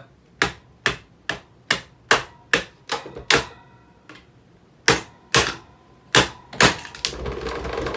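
A table fan being wrecked gives a run of sharp clacks, about two a second, with a short pause midway. Near the end a steady noisy whir sets in.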